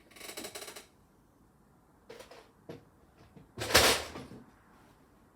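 Loose Lego pieces rattling and clicking as they are picked through by hand: a short clatter at the start, a few single clicks, then a louder clatter of pieces a bit past halfway.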